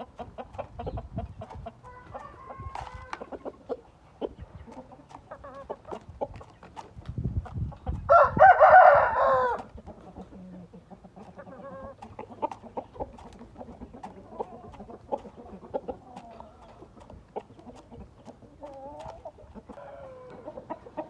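Gamefowl rooster crowing once, loudly, about eight seconds in, with scattered clucks and short clicks around it.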